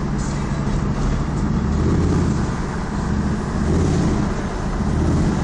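Pickup truck engine and road noise heard from inside the cab while driving, the engine swelling louder three times as it pulls.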